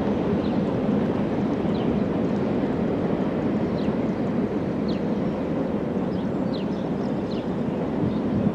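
Steady rumble of a passing train, with a bird's short falling chirps repeating over it.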